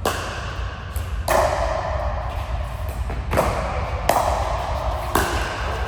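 Five sharp hits at uneven spacing of about one to two seconds, each ringing briefly in a large hall, the strikes of a rally in a ball or racket game.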